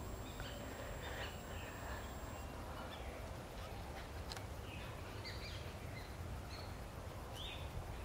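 Faint, scattered bird calls from the surrounding trees, short chirps coming every second or so over a steady low background rumble.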